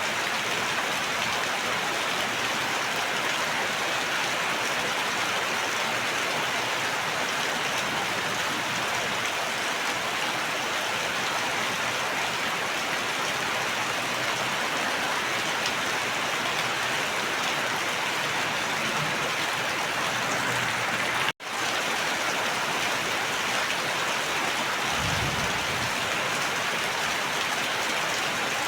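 Steady heavy rain falling, a dense even hiss, with a brief cut-out about three quarters of the way through and a faint low rumble soon after.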